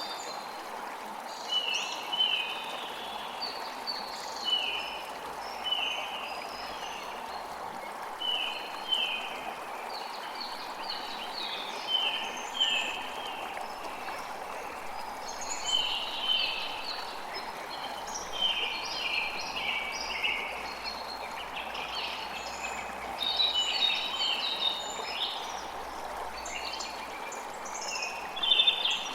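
Steady rush of flowing water with birds chirping over it: many short, high chirps and trills, coming every second or two.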